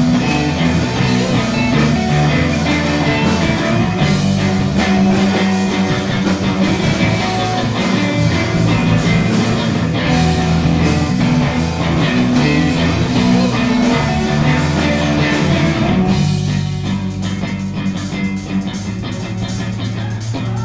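Live rock band playing, with guitar to the fore. About three-quarters of the way through, the band thins out and gets a little quieter.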